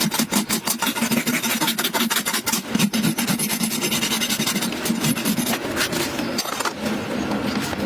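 Rasping and scraping on a horse's hoof during farrier work, a fast, uneven run of short strokes.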